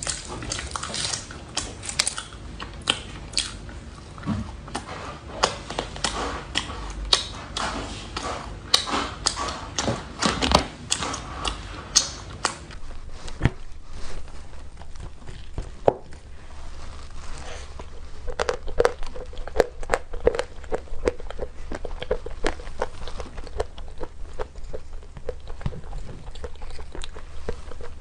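Close-miked eating sounds: biting and chewing food, with many sharp crackly clicks through the first half, then softer chewing.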